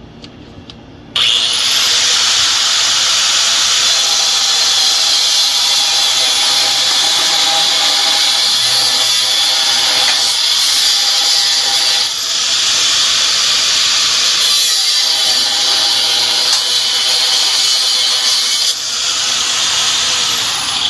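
Angle grinder starting up about a second in and cutting through an exhaust clamp, its high whine rising as it spins up, dipping and picking up again midway, and falling as it winds down near the end.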